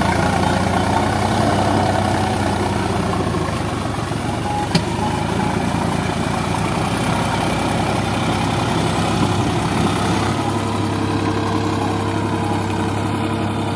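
Sonalika DI 47 tractor's diesel engine running steadily at a low, even speed, with one short click about five seconds in.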